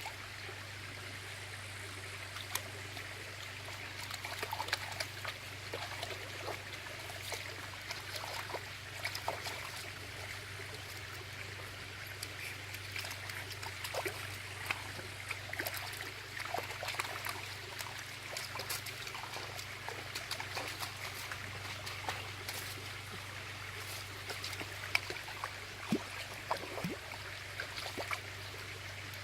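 Water trickling steadily, as in a small stream, with scattered short clicks and splashes and a steady low hum underneath.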